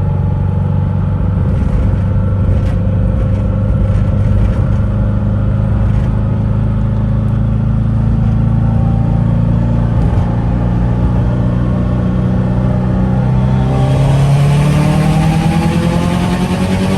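Subaru WRX with an external wastegate: the engine runs on a steady, slowly rising note, then climbs in pitch as it accelerates about three-quarters of the way in. A loud rushing hiss joins the exhaust note as the revs rise.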